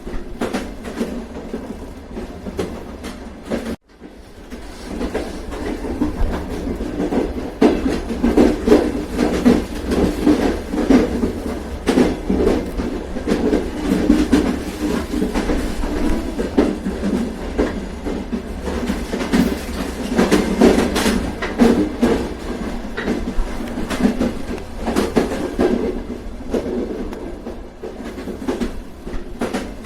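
Train running along the track: a steady rumble with wheels clicking over the rails. The sound drops out abruptly for an instant about four seconds in, then swells back up.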